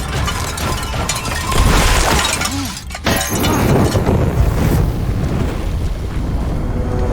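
Loud crashing and shattering, heaviest about two seconds in, breaking off briefly near three seconds, then crashing on again before it eases.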